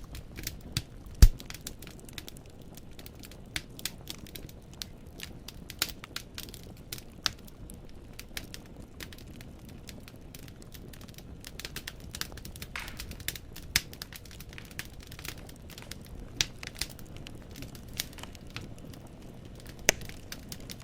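Wood fire in a fireplace crackling, with irregular sharp pops of burning logs over a low steady rumble of the flames. One louder pop comes about a second in, another near the end.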